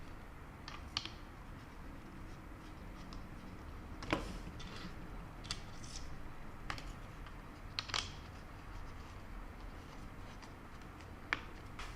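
Scattered light clicks and scrapes of small parts being handled while a shifter plate cover is fitted with its screws. The clicks are sparse and faint, the sharpest about four seconds in and again about eight seconds in.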